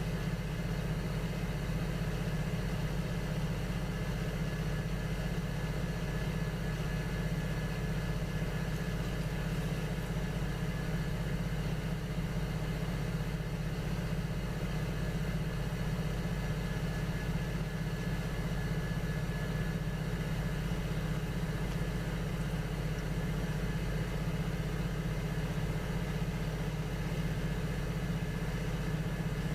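Electric potter's wheel motor running steadily, a continuous even hum with a faint high whine.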